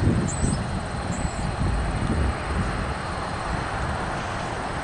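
Steady low rumble of distant traffic, with two faint high chirps in the first second and a half.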